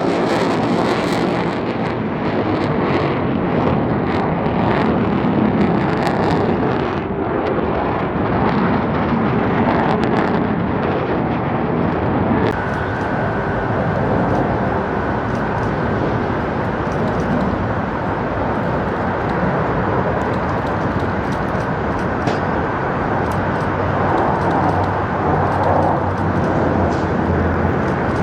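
Aircraft engine noise from a flyby, loud and steady, with a thin steady whine joining about halfway through.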